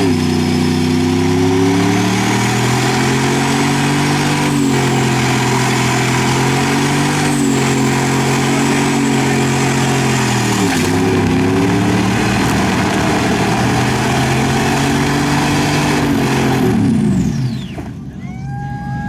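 A vehicle engine revved hard and held at high revs for a long stretch, with a high whine over it. The revs dip briefly about halfway through, pick up again, then fall away near the end.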